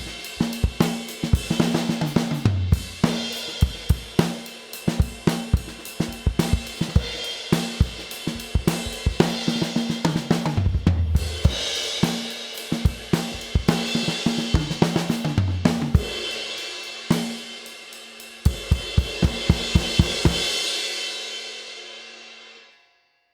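Drum kit groove played around a Zildjian 22-inch K Custom Medium Ride cymbal, its ride wash over snare, kick and hi-hat. About eighteen seconds in comes a run of even, quick drum strokes, then a final cymbal wash rings and fades away.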